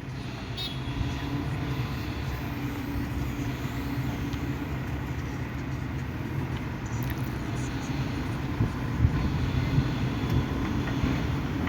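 An engine running steadily with a low rumble, with a couple of brief knocks about nine seconds in.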